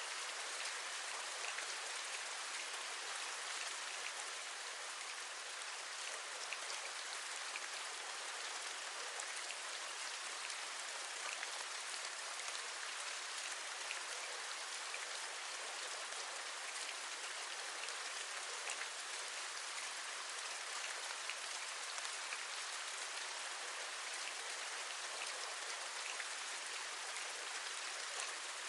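Steady rainfall, an even hiss with many scattered small taps of individual drops.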